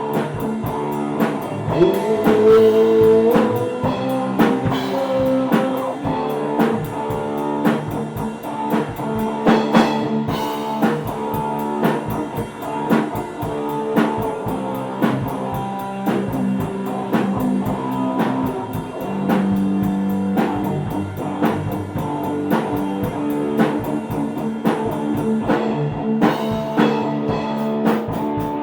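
Rock band playing: electric guitar over a drum kit keeping a steady beat, with a note sliding up about two seconds in.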